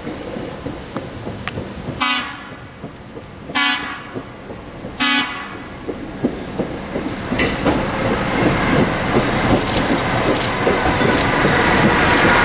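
Locomotive air horn sounding three short blasts, followed by a train arriving and passing close by, its wheels clicking over the rail joints and growing louder.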